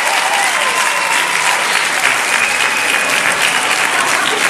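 Audience applauding steadily, with a few faint held and falling tones over the clapping.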